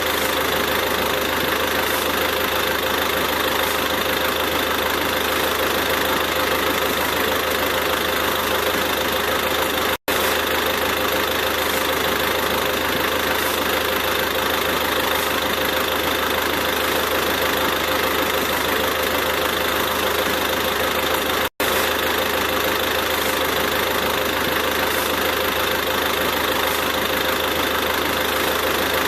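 A steady engine-like running drone that holds an even level throughout, cut off for an instant twice.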